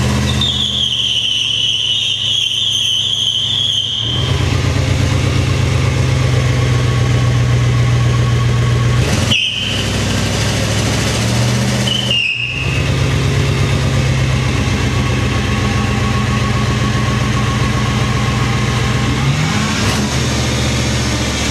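Chevrolet 5.7-litre V8 running at a steady speed. A high whine rides over it for the first few seconds, and the sound breaks off briefly twice partway through.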